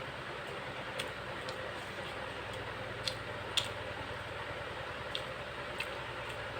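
Six or so short, sharp clicks and taps at irregular moments, the loudest about three and a half seconds in, such as a plate, spoon or fingers make during a meal, over a steady background hum.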